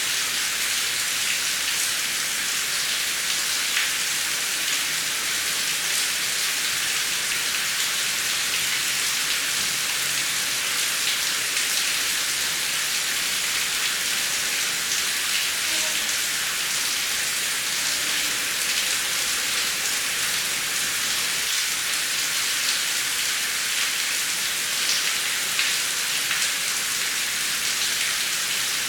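Heavy rain falling steadily: a dense, even hiss with sharp drop ticks scattered through it.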